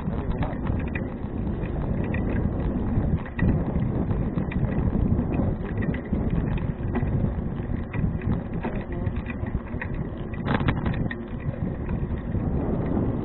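Wind rushing over an action camera's microphone on a moving bicycle, with tyre rumble and frequent small clicks and rattles from the bike. A sharper knock comes about ten and a half seconds in.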